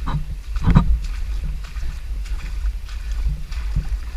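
Rubber boots wading through shin-deep floodwater, sloshing and splashing with each step, the biggest splash a little under a second in, over a steady low wind rumble on the microphone.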